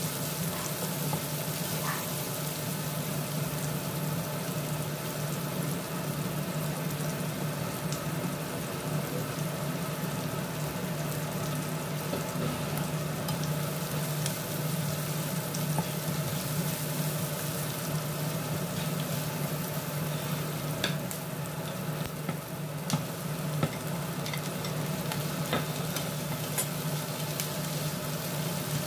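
Sliced red onions sizzling in oil in a non-stick frying pan, stirred with a plastic spatula that scrapes and taps against the pan now and then, the taps thicker in the second half. A steady low hum runs underneath.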